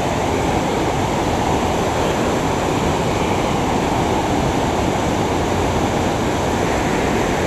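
Waterfall: water pouring down over rock, heard as a loud, steady rushing noise.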